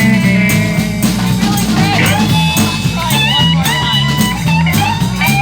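Live blues band playing an instrumental stretch: bass and drums keep a steady groove while a lead electric guitar plays bending notes from about two seconds in.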